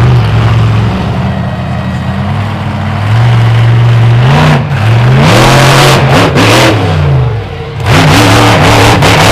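Monster truck engine running loud, holding steady for a few seconds and then revving up and down repeatedly, with a second series of revs near the end.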